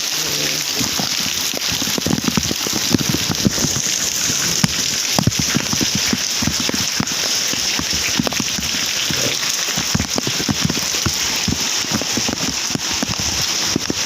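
Heavy rain falling steadily: a constant hiss with many sharp drop hits on nearby surfaces.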